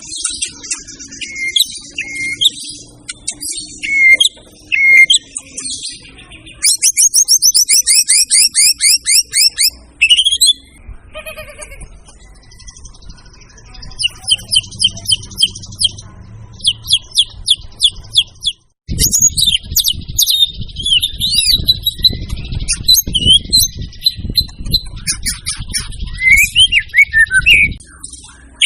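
White-rumped shama (murai batu) in full song: loud, varied whistled phrases broken by fast runs of repeated trilled notes. From about two-thirds of the way in a low rumble sits under the song.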